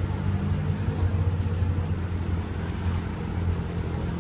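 Car engines idling in traffic stopped at a red light, a steady low hum.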